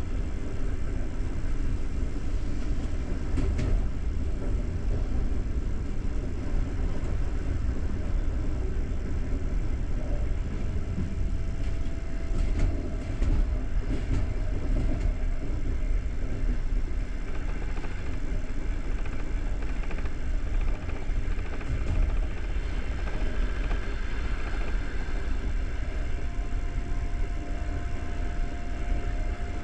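Passenger train running along the track, heard from inside the carriage: a steady low rumble of wheels on rails with a few faint clicks, and a faint steady whine that comes and goes.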